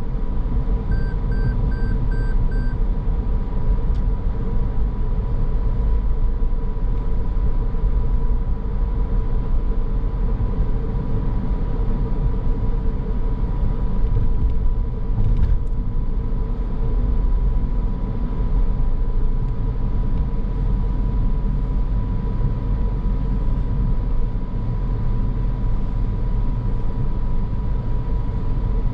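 Steady road and engine rumble of a moving car heard from the cabin. About a second in there is a quick series of five short beeps.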